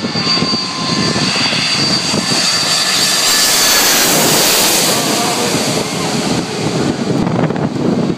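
Boeing 747's jet engines passing low overhead on landing approach: a loud rushing roar with a high whine, swelling to its loudest about three to five seconds in, then easing off.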